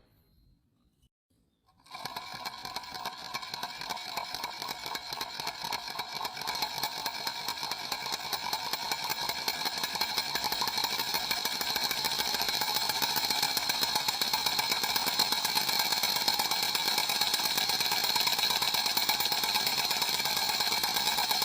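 A small motor starts suddenly about two seconds in and runs with a fast, buzzing rattle, growing steadily louder.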